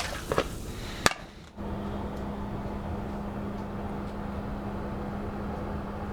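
Brief water splashing and a sharp knock, then a steady motor hum with one constant low pitch that starts abruptly about one and a half seconds in.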